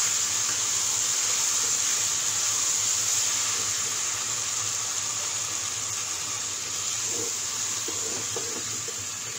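Chicken, potato and papaya sizzling in hot oil and spice paste in a pot as they are stirred with a spatula, being dry-fried (koshano) before any water is added. A steady hiss that eases off slowly.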